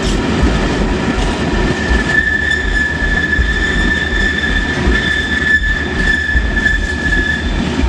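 Freight train wagons rolling past on the rails: a dense, very noisy rumble and clatter of wheels, with a steady high-pitched wheel squeal from about two seconds in until near the end.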